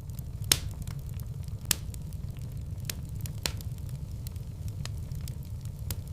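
Fireplace fire burning with a steady low rumble and scattered sharp crackling pops, the two loudest about half a second and just under two seconds in.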